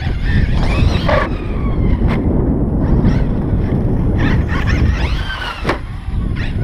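Losi LST XXL2-E electric RC monster truck running, its brushless motor whining up and down in pitch as it speeds up and slows, over heavy wind rumble on the microphone. There are a couple of sharp knocks, about two seconds in and near the end.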